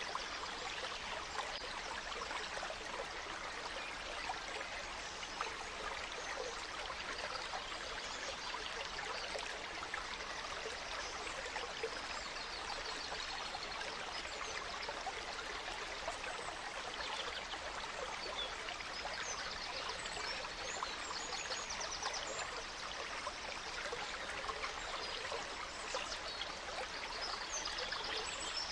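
Gentle stream running steadily over stones, with a few high bird chirps now and then, most of them in the second half.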